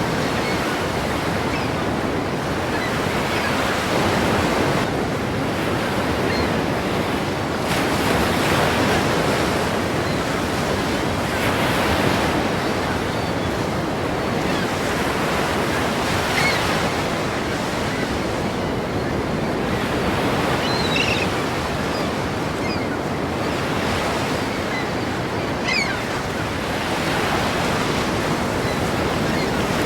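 Ocean waves breaking against a pier: a continuous wash of surf that swells every few seconds.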